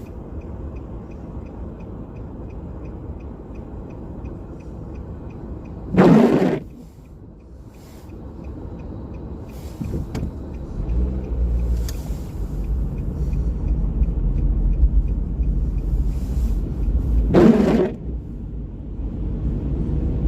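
Steady low rumble of a car moving through rainy city streets, growing louder about halfway through. Two short, loud swishes come about eleven seconds apart, and a faint rapid ticking runs underneath at first.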